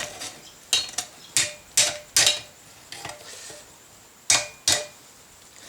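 Hand hammer striking hot mild steel on an anvil, with a short metallic ring after each blow: about six blows at uneven spacing with a pause of about a second in the middle.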